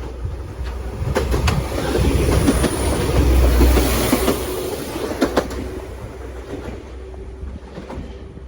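A train passing close by: its rumble builds to a peak a few seconds in and then fades away, with wheels clicking over rail joints about a second in and again about five seconds in.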